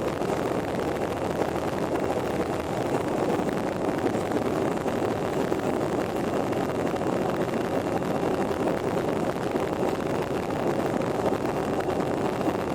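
Steady noise of a jet airliner's engines and airflow, even throughout, with a faint steady tone.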